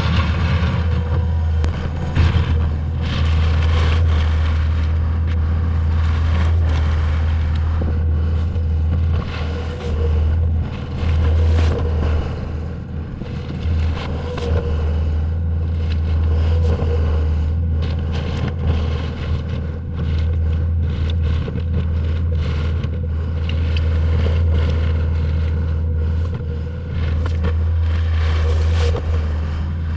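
Compact track loader's diesel engine running steadily, with gravel scraping and clattering under the bucket as rock is spread and holes are filled.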